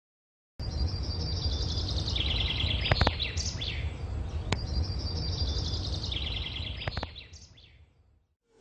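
Bird chirping and trilling over a steady low rumble of background noise, starting abruptly after a moment of silence. The same chirping phrase plays twice, a looped bird-sound track, and fades out near the end.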